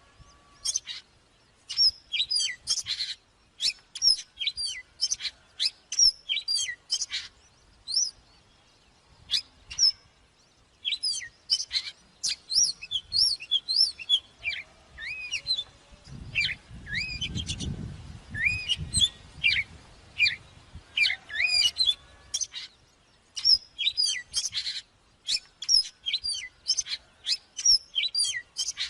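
Oriental magpie-robin singing: varied whistled phrases of quick rising and falling notes, repeated with short pauses. A low rumble runs under the song in the middle.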